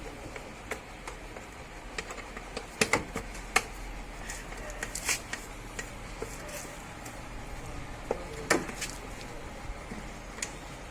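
Scattered metal clicks and clinks of hand tools and small engine parts being handled while a scooter's cam chain tensioner is taken off, with a few louder knocks about three seconds in and again near the end.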